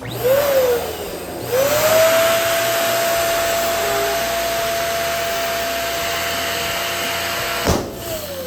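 Electric balloon pump blowing air with a motor whine. It runs in a short burst about a second long, then steadily for about six seconds. Near the end it cuts off with a sharp click, and the whine falls away as the motor spins down.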